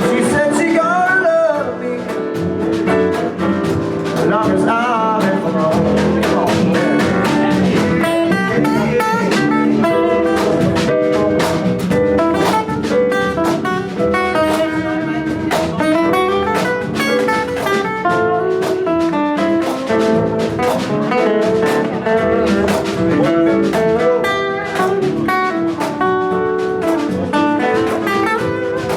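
Live band playing an instrumental stretch: electric guitar with bending notes over bass and drum kit, in a blues-jazz style.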